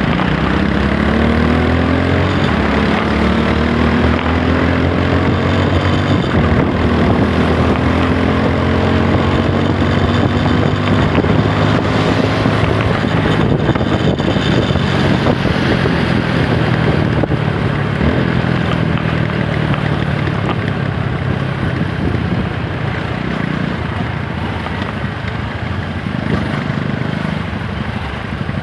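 TVS Apache 160 4V's single-cylinder engine pulling under way, its note climbing slowly for about twelve seconds, then settling lower and steadier, with rushing noise under it. The engine eases off slightly near the end.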